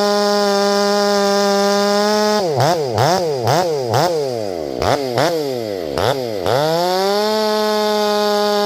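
Ported Stihl 500i fuel-injected two-stroke chainsaw running at high revs while bucking a grand fir log. About two seconds in its pitch drops and climbs several times in quick succession, sinks low for a moment, then climbs back to steady high revs.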